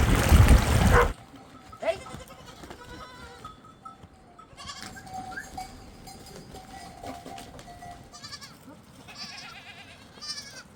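A loud, noisy sound cuts off abruptly about a second in. After it, goats bleat now and then over the steady ringing of livestock bells.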